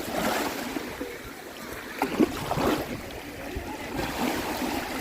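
Small Baltic Sea waves washing onto the shore, surging and easing, with a sharper louder splash a little after two seconds in.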